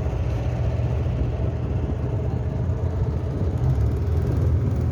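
Boat engine running steadily with an even low hum, under a wash of water and wind noise.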